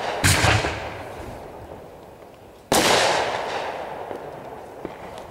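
Fireworks going off: two sharp bangs about two and a half seconds apart, each trailing off over the next couple of seconds.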